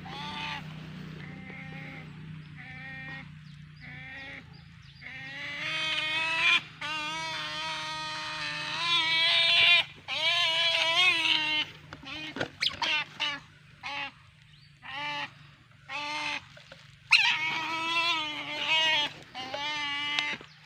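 Otter calling: a series of wavering, whining squeals, short at first, then several long drawn-out ones in the middle, followed by shorter bursts near the end.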